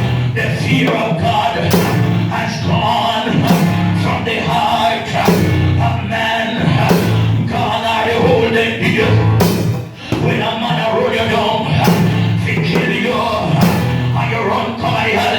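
Loud live band music with singing over a drum beat and bass.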